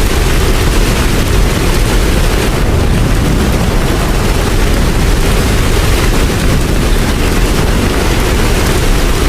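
Steady rain noise with a deep, even rumble underneath.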